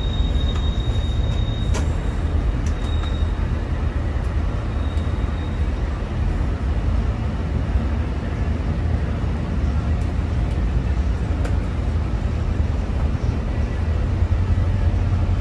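Steady low rumble of a track inspection rail vehicle running, heard from inside its driving cab, with a few light clicks.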